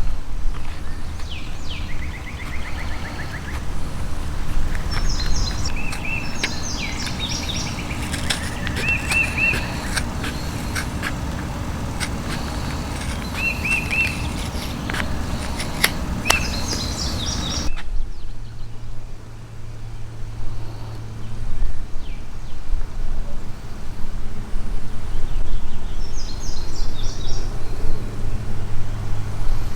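Birds chirping in short repeated phrases over a low wind-like rumble, with scattered sharp clicks. About two-thirds of the way through the sound changes abruptly to a low steady hum, with more bird calls near the end.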